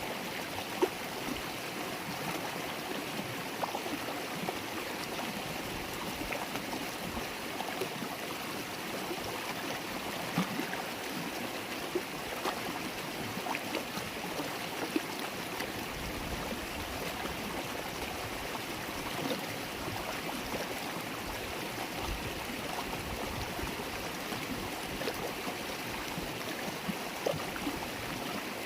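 River water flowing and gurgling steadily over rocks, with many small splashes and trickles.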